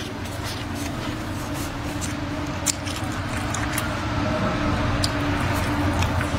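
Close-up eating sounds: chewing and mouth noises on rice and braised meat, with scattered sharp clicks of wooden chopsticks on a bowl. A steady low hum runs underneath and grows slightly louder.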